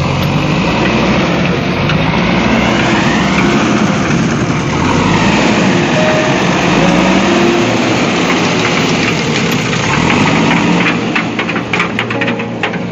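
An engine running steadily, with a cluster of sharp clicks near the end.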